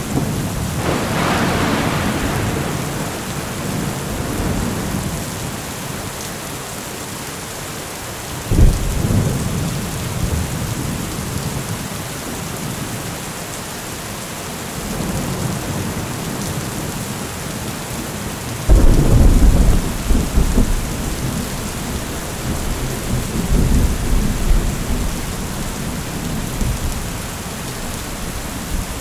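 Heavy rain falling steadily, with thunder: a rumble about a second in, a sudden sharp clap about eight seconds in, and the loudest clap about nineteen seconds in, followed by rolling rumbles that come and go for several seconds.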